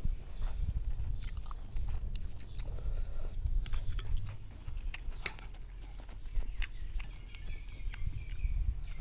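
A person chewing and biting tender marinated pork and noodles, with scattered small wet mouth clicks, over a steady low background rumble.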